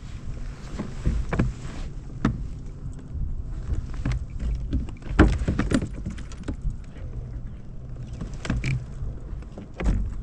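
Scattered knocks and clicks of fishing gear being handled in a plastic kayak, over a steady low rumble.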